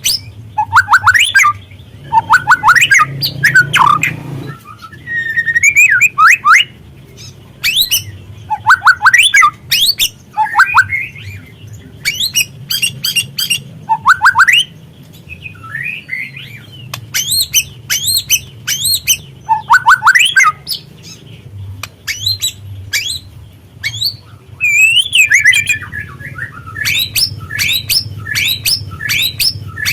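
Juvenile white-rumped shama singing and calling: rapid bursts of sharp sweeping chirps and whistles, coming in clusters with short pauses between them, over a low steady hum.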